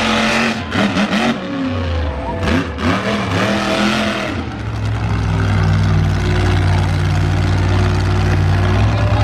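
Monster truck engine revving up and down with a few sharp bangs. About halfway through it settles into a steady, loud drone.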